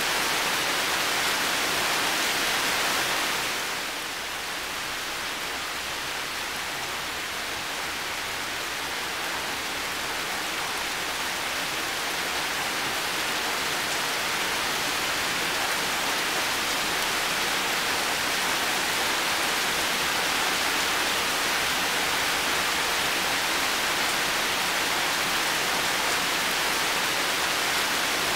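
Heavy rain falling steadily, an even hiss of rain. It turns a little softer about four seconds in, then slowly builds back to full strength over the next several seconds.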